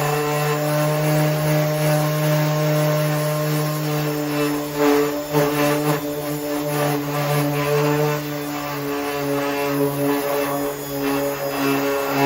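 A steady machine drone: a low hum with overtones, with brief louder noisy surges about five seconds in and again near the end.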